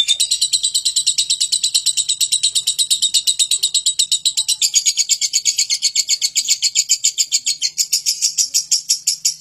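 Lovebird giving a long unbroken 'ngekek' chatter: rapid, evenly spaced shrill notes at about nine a second that keep going without a pause.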